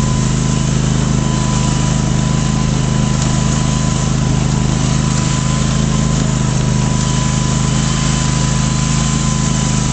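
Craftsman DGT 6000 lawn tractor's 27 hp twin-cylinder engine running at a steady, even speed, with a faint thin whine above the drone.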